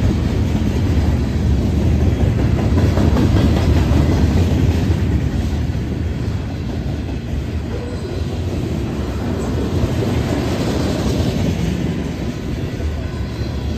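Freight cars of a mixed freight train (gondolas, covered hoppers, tank cars) rolling past at close range: a steady, heavy rumble of steel wheels on the rails with clickety-clack over the rail joints, easing slightly about halfway through.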